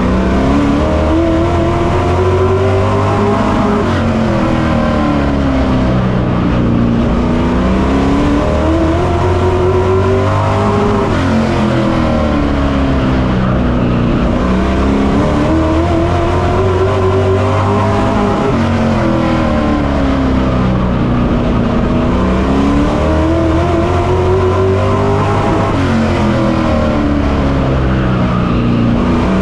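Race truck engine heard on board at racing speed, rising in pitch under full throttle down each straight and dropping as the driver lifts for the turns, a cycle repeating about every six to seven seconds, four times over. Steady rush of wind and tyre noise underneath.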